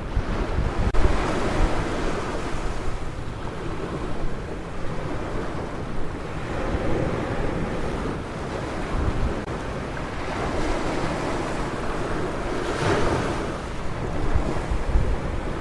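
Ocean waves breaking and washing up a beach, swelling about every six seconds, with wind rumbling on the microphone.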